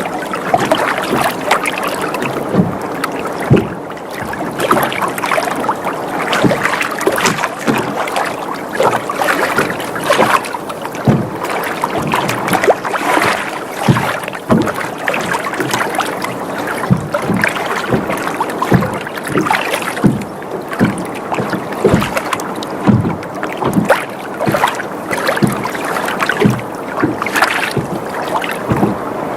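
Water sloshing and lapping against a boat's hull, with frequent irregular slaps and knocks as the boat rocks.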